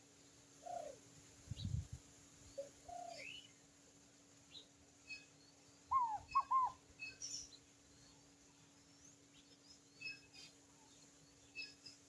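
Birds calling: short high chirps scattered throughout, a few lower falling calls early, and three quick arched whistled calls about six seconds in, the loudest sound. A low thump about a second and a half in.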